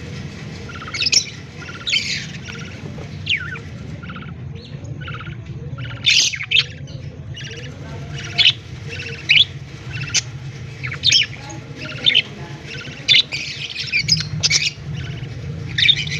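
Budgerigars giving short, sharp chirps and squawks, about one a second, some sliding down in pitch, over a steady low hum.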